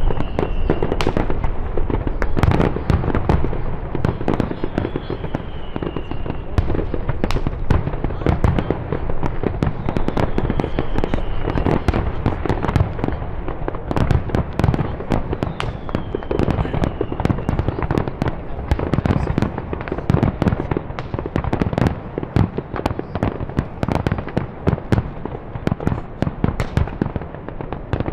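A dense, continuous barrage of fireworks and firecracker bangs, with many sharp reports a second and no let-up. A faint high falling whistle comes back about every six seconds in the first half.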